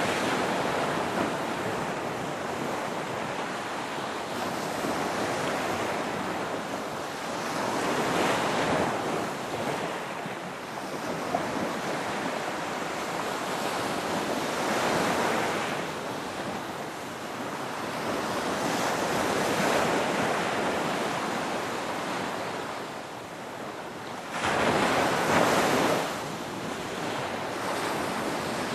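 Ocean waves breaking and washing in, the surf swelling and falling back every few seconds, with the biggest surge near the end.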